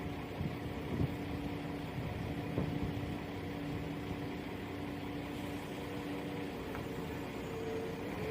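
Two coupled Class 172 Turbostar diesel multiple units pulling out of the station, a steady diesel engine drone with a few sharp knocks in the first three seconds.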